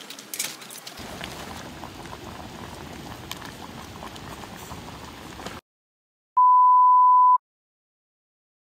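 Liquid bubbling for about five seconds with a few clicks at the start, then the sound cuts off suddenly. After a short silence, a loud steady beep at one pitch lasts about a second.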